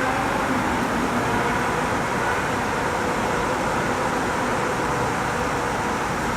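A steady, even rush of heavy rain in a severe thunderstorm, with no thunder claps.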